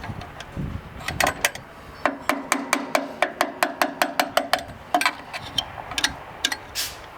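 A hammer striking metal in a quick, even run of about four taps a second, then a few slower taps. Each tap has a short ring.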